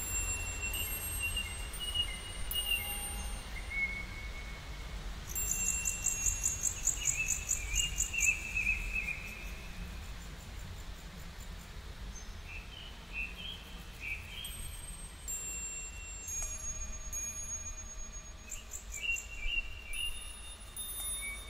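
Birds calling in a garden: short whistled notes that slide in pitch, and a fast, high trill about six seconds in, over a steady low rumble.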